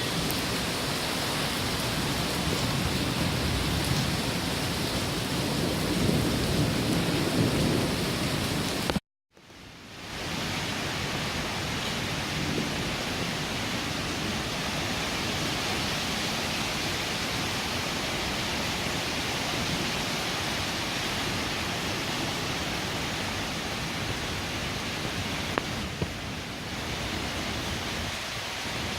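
Heavy rain falling steadily, with a low rumble underneath for the first part. The sound cuts out to silence for a moment about nine seconds in, then the rain continues evenly.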